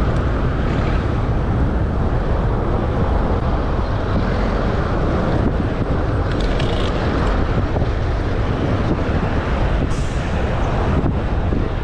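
Wind rushing over the microphone on a moving bicycle: a steady, loud noise, heaviest in the low end.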